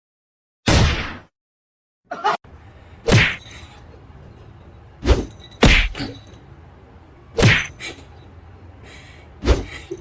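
A series of sharp thumps or smacks, about seven, irregularly spaced, each dying away quickly.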